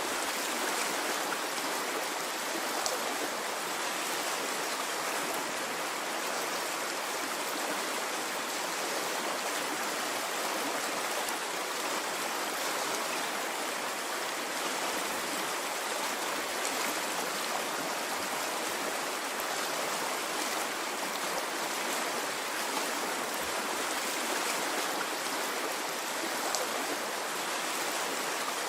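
A stream running in a steady, even rush of flowing water.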